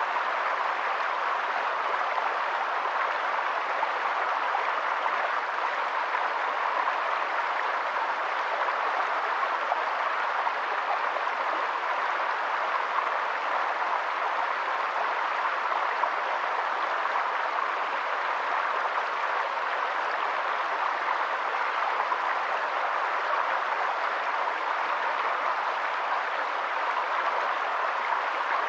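Water rushing steadily and evenly, with no breaks or changes.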